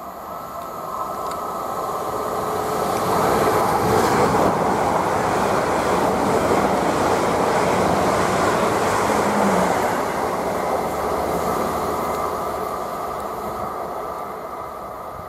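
Two coupled Class 444 electric multiple units running through the station at speed without stopping. The train's running noise builds over the first few seconds, peaks as it passes, and then fades as it runs away.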